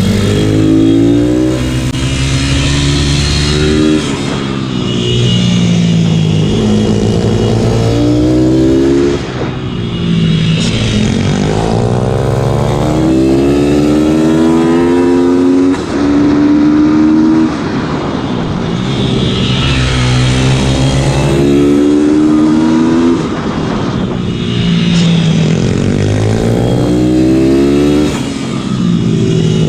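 Pit bike single-cylinder four-stroke engine under hard racing use: the revs climb again and again through the gears, then drop with brief lifts off the throttle for shifts and corners.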